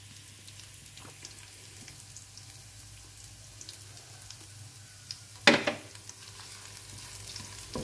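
Sliced shallots and garlic frying in oil in a wok, a soft steady sizzle with small crackles. There is one louder clatter about five and a half seconds in.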